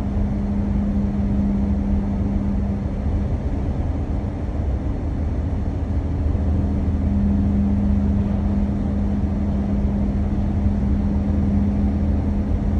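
Triangle PL-01/PL-02 car tyres humming at about 110 km/h: a steady drone of one pitch over the road rumble, which the driver likens to a tram going by. He hears this hum only in a narrow band, from about 107 to 110 km/h, with no shake in the steering.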